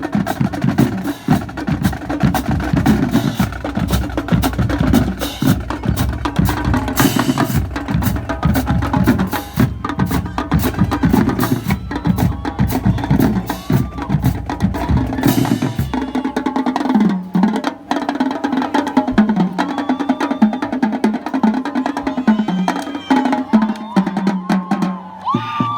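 Marching drum line playing: rapid snare and tenor drum strokes with stick clicks over pounding bass drums. About two-thirds of the way in the bass drums drop out and the lighter drumming carries on.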